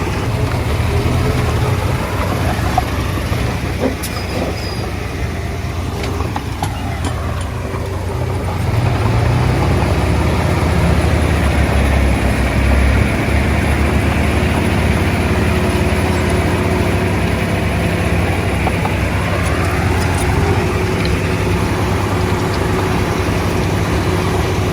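Komatsu D20A bulldozer's diesel engine running steadily under work, getting louder about eight seconds in, with occasional clicks and knocks from the machine.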